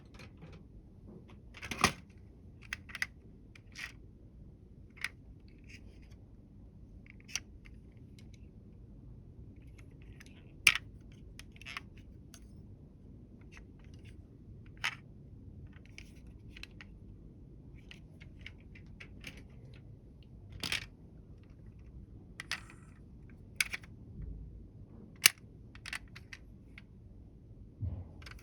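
Scattered sharp clicks and taps of small hard toy vehicles being handled and set down, coming irregularly every second or two over a faint steady room hiss.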